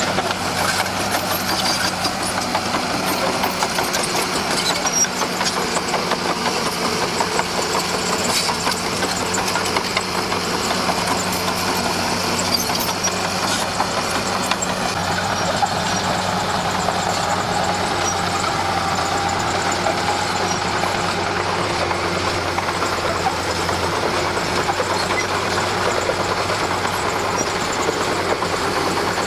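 Komatsu D41P bulldozer's diesel engine running steadily as the dozer pushes material.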